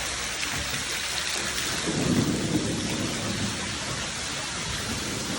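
Steady rush of splashing water, with a louder low rumble for about a second and a half starting about two seconds in.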